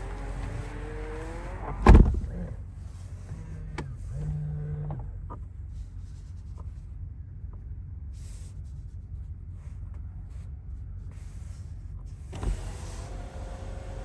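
A car's electric motor whining, rising in pitch, then stopping with a loud thump about two seconds in. A shorter, lower motor hum follows, and near the end there is another thump and the whine starts again. This is a power window, seat or door/trunk mechanism of the BMW 760i at work.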